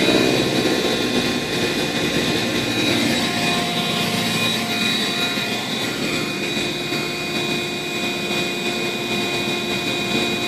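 Steady drone of a bee removal vacuum running, with the buzzing of a honeybee swarm as the bees are drawn up the hose.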